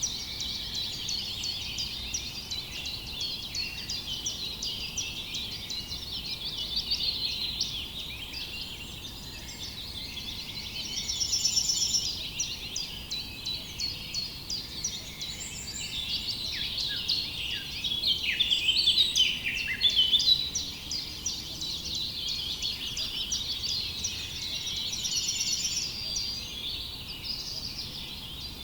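Dense chorus of many small birds chirping and twittering without a break.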